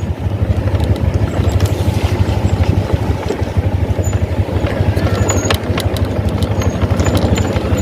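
Motorcycle engine running with a steady low rumble, with a few sharp clicks about five seconds in.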